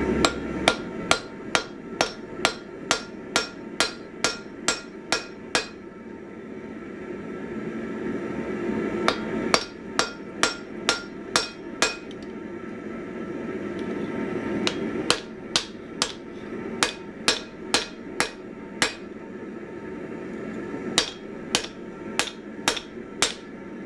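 Hand hammer striking hot 1045 steel on an anvil: short ringing blows about two a second, in four runs with short pauses between, while the axe head is being tidied up. A steady low rumble runs underneath.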